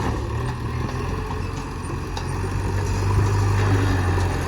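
Heavy diesel engine of earth-moving machinery running steadily with a low hum that swells slightly about three seconds in, with a few faint knocks.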